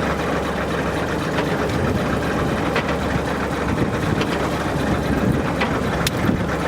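Fishing boat's engine running steadily, with a few sharp clicks or knocks over it.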